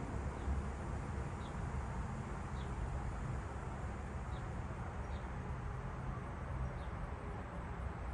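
A bird calling short, high chip notes, each sliding slightly downward, repeated about once a second over a steady low outdoor rumble.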